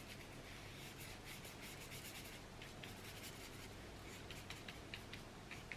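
Faint scratchy rubbing of a paintbrush laying gouache onto paper in many short strokes, with a few sharper light ticks in the second half.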